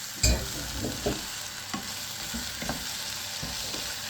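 Chopped vegetables and seasoning sizzling in hot coconut oil in a pan, stirred with a utensil that knocks and scrapes against the pan; the loudest knock comes just after the start, then a few lighter clatters.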